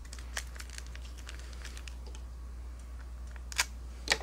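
Pokémon trading cards being handled and flipped through by hand, a scatter of light card clicks and snaps, with two sharper snaps near the end. A steady low electrical hum sits underneath.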